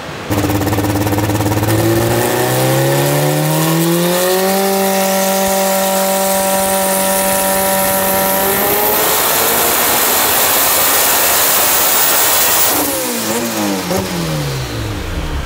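Turbocharged Honda B18 four-cylinder engine running under load on a hub dyno: the revs climb for a few seconds and hold steady, then become a loud rush with a thin rising whine. Near the end the revs fall away as the run finishes.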